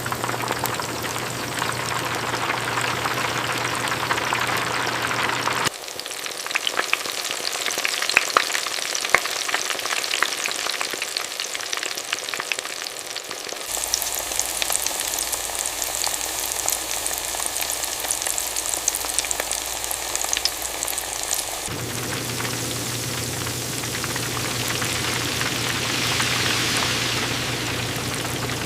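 Chicken frying in hot oil, a steady sizzle with crackling pops. The sound changes abruptly about every eight seconds, as if cut between separate shots.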